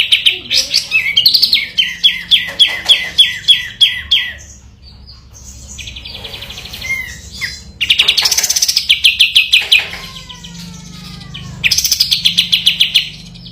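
Kapas tembak singing its fast rattling trill ("ngebren"), a quick even string of notes repeated about six or seven times a second, in three bouts. Between the bouts come short pauses with soft chirps and a few falling slurred notes.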